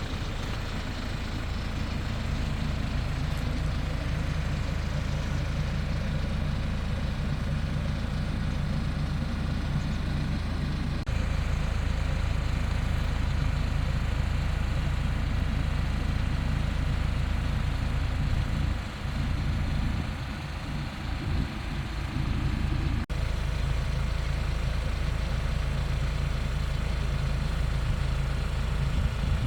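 Hyundai Porter II light truck's engine idling with a steady low hum.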